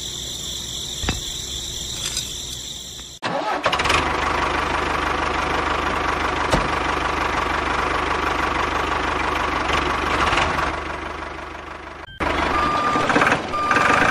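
A motor running steadily with a low hum, broken by abrupt cuts about 3 seconds in and about 12 seconds in, and fading just before the second cut.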